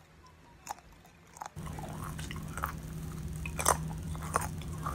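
Close-up chewing of a Golden Krust Jamaican-style chicken patty, its crust crunching in several sharp bites. A low steady hum comes in about a second and a half in.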